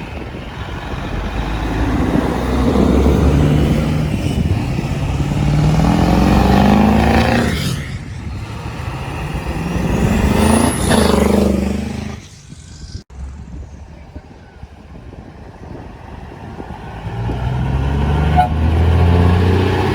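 Big-truck diesel engines pulling away under load, their pitch climbing twice as they rev through the gears. Then the sound falls away for a few seconds before an engine builds up again near the end.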